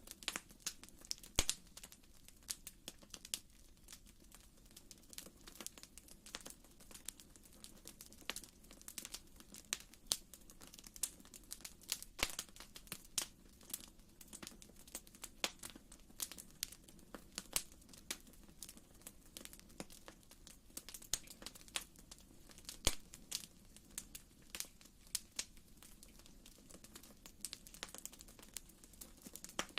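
Wood fire in a fireplace crackling: irregular sharp pops and snaps, several a second, over a faint steady low rumble of the flames.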